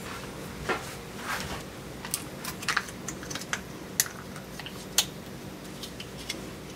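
A series of irregular light clicks and taps, the sharpest about four and five seconds in, over a steady low hum.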